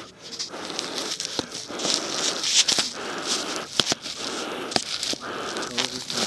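Small campfire being tended: irregular crackling and snapping clicks over a hissing rustle of burning and shifting kindling.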